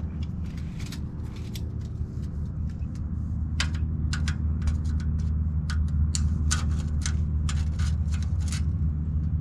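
A steady low mechanical hum made of a few even tones runs throughout, under a scatter of sharp clicks and rustles from cardboard and sheet metal being handled.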